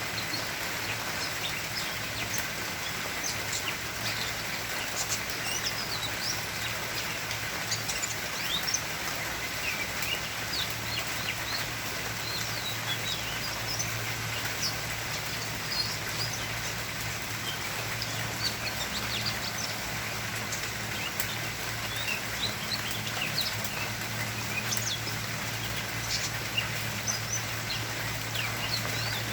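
Birds chirping: many short, high calls scattered throughout, over a steady hiss and a low hum.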